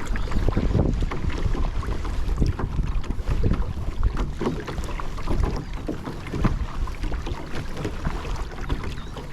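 Water splashing and sloshing around a kayak, with many short irregular splashes, over a low rumble of wind on the camera microphone.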